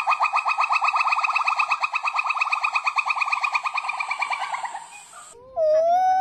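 Monkey calls: a fast trill of short, upward-flicking notes, about eleven a second, that fades away near five seconds in. Just before the end a new long, steady call begins, held on one pitch and rising slightly.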